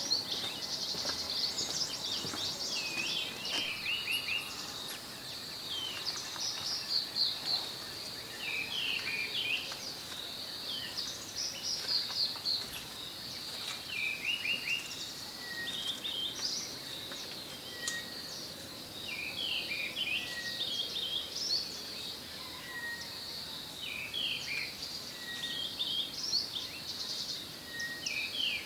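Wild birds singing: short whistled phrases repeated again and again, with a brief falling note coming back every couple of seconds in the second half, over a steady high drone.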